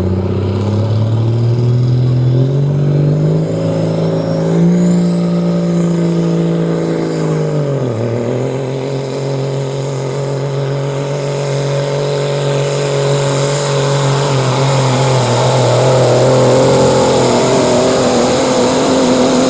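Limited pro stock semi truck's diesel engine at full throttle pulling the sled. The revs climb over the first few seconds, dip sharply about eight seconds in and settle lower, then hold steady under load and fall away at the very end.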